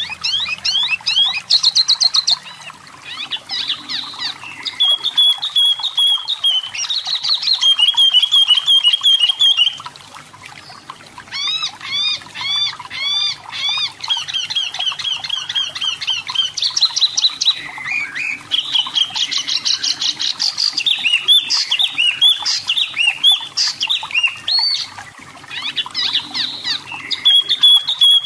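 Wambi mini (tepus lurik) singing: phrases of quick, repeated high chirps and short trills, each phrase a run of the same note, changing to a new note every few seconds.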